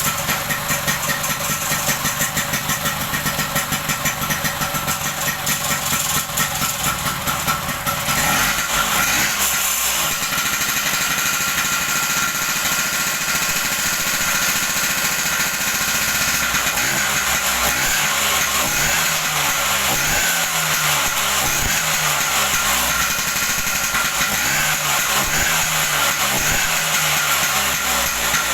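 Bajaj Vespa scooter's two-stroke single-cylinder engine running, after a restoration tune-up. It idles with a quick, uneven pulsing, is revved up about eight seconds in, and then runs at higher revs with the speed rising and falling a little.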